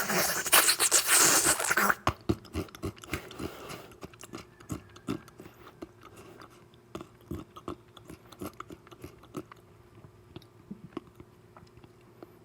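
Close-miked ASMR eating: a loud, dense crunching bite for about two seconds, then wet chewing with irregular clicks that grow fainter and sparser.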